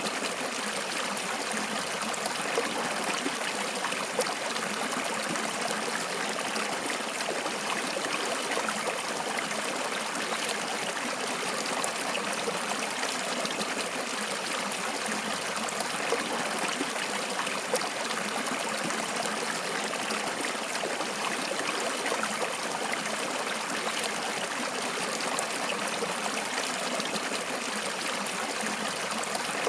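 Flowing water, a steady, unbroken rush with no pauses.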